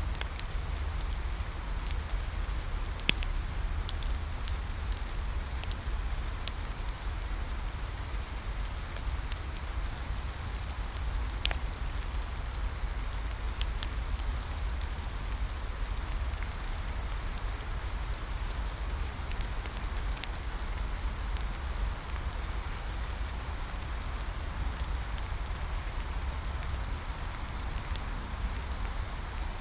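Steady rain hissing, with a low rumble underneath. A wood fire gives a few sharp crackles and pops scattered through.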